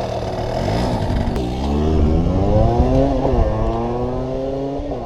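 Small dirt bike engine revving: its pitch swings up and down twice, then climbs steadily as it pulls through the gear.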